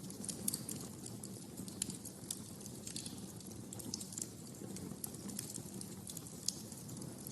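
Wood fire in a fireplace crackling: irregular sharp snaps and pops, several a second, over a low steady rumble.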